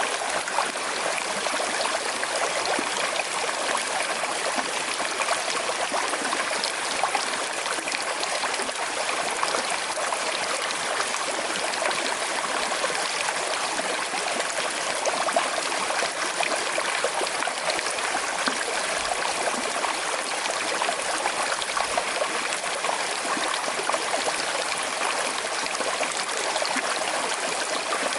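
Small river flowing with a slight current: a steady, even babble and trickle of water.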